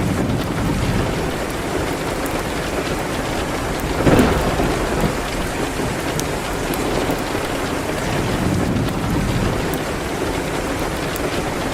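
Steady rain, with a burst of thunder swelling up about four seconds in. Faint scattered crackles from a fireplace sound through the rain.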